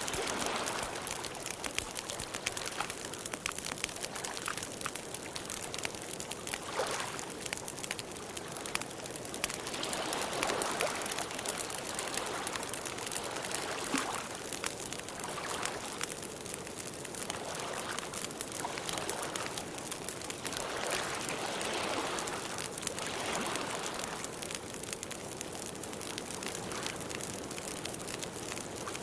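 Water running and trickling steadily, with many small splashes.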